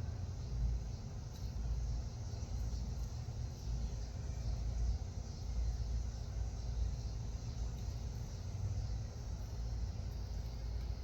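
Outdoor ambience: a steady low rumble with a faint high hiss, and no distinct bird calls standing out.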